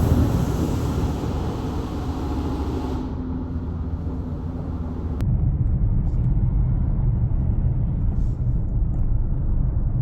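A steady low rumble. A hiss above it fades out about three seconds in, and about five seconds in the sound changes abruptly, leaving a stronger rumble.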